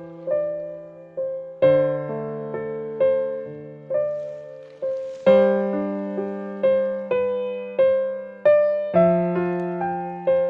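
Gentle piano music: single melody notes struck about twice a second over held low bass notes that change every few seconds.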